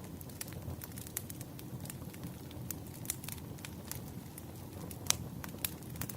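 Wood fire crackling: a steady low rumble of burning logs with frequent irregular sharp pops, the loudest snap about five seconds in.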